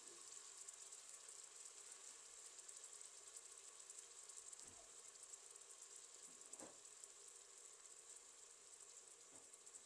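Faint, steady sizzle of food frying in hot oil in a pan, with a fine crackle and a few soft knocks.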